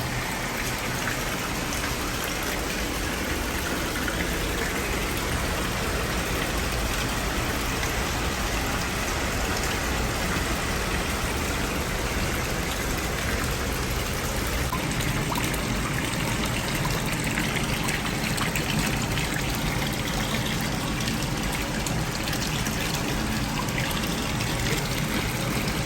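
Hot-spring water running steadily from the tap into an outdoor bath tub.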